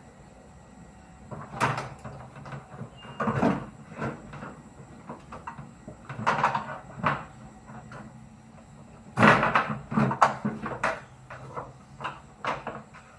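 Irregular knocks, clunks and short scrapes of hand work on a front-loading washing machine being taken apart, with the loudest group of knocks about nine seconds in.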